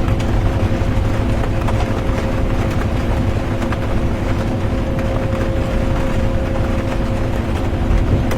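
Interior of a moving bus: steady engine and road rumble with a constant low drivetrain hum, and faint scattered ticks of rain on the bus.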